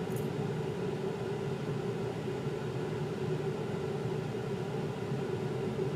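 A steady mechanical hum with a constant tone and an even noise underneath, unchanging throughout.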